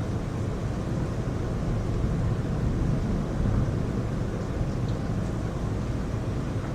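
Heavy rain pouring down, a steady deep rushing noise with no distinct claps or drops standing out.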